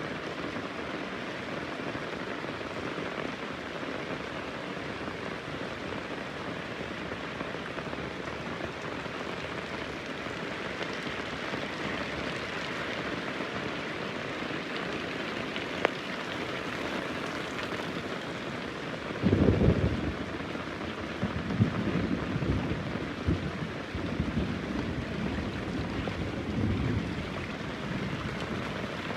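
Heavy rain falling steadily. About two-thirds of the way through, a sudden clap of thunder breaks in and rumbles on unevenly for several seconds.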